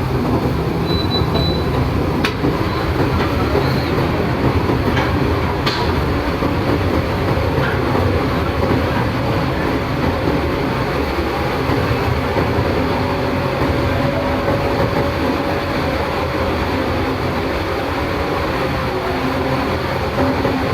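Steady, loud mechanical rumble of a ferry's engine and machinery running, with a few sharp metallic knocks in the first six seconds.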